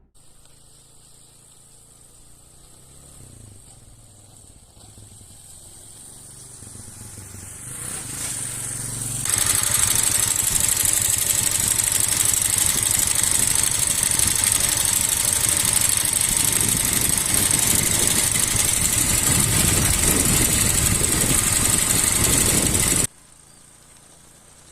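Motorcycle engine running while riding, faint at first and gradually getting louder. About nine seconds in it turns into a loud, steady rush of engine and wind noise, which cuts off abruptly near the end.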